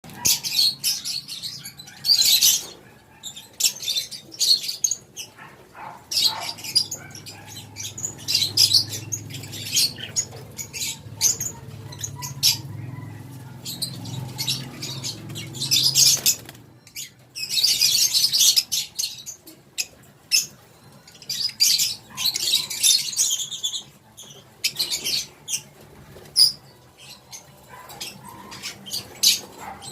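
Lovebirds chattering in many short, shrill, high-pitched bursts, with a few longer runs of rapid calls.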